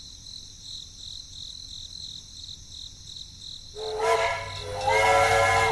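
Insects chirping steadily, about three chirps a second. About four seconds in, a loud, steady horn-like tone with several overtones cuts in over them.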